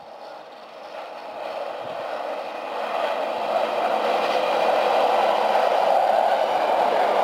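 Regional electric multiple unit approaching and passing on the rails, its running noise growing steadily louder over the first three or four seconds and then holding as it goes by close to the platform.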